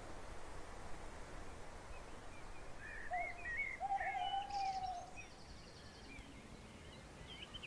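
Small birds chirping at dawn, a cluster of quick rising chirps about two to five seconds in with a longer, lower call among them, over a steady low outdoor rumble.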